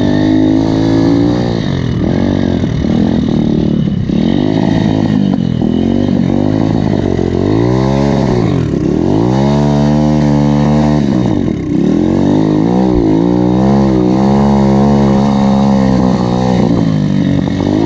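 A 140cc pit bike's single-cylinder four-stroke engine running hard, its pitch rising and falling again and again as it is revved and eased off.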